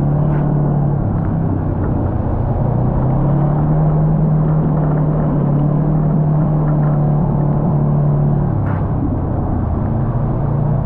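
Kawasaki side-by-side UTV engine running under way, a steady drone that dips and picks up once, holds its pitch, then eases off near the end. A couple of faint knocks sound over it.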